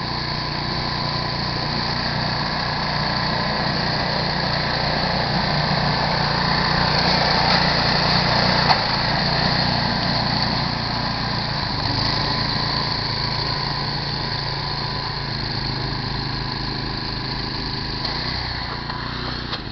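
Snowblower's small gasoline engine running steadily, with a brief click about nine seconds in and a slight change in its pitch a few seconds later.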